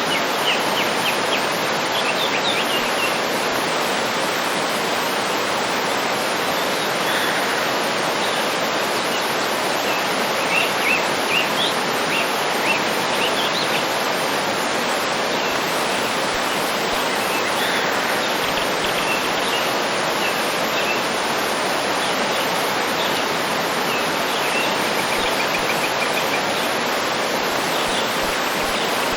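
Waterfall rushing steadily, with small birds chirping now and then over it, busiest in the middle.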